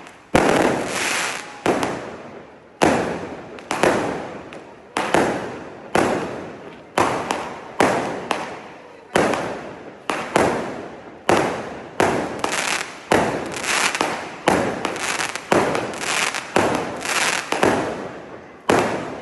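Consumer firework cake firing shot after shot, about one a second at first and closer to two a second later, each a sudden bang that fades away over about half a second.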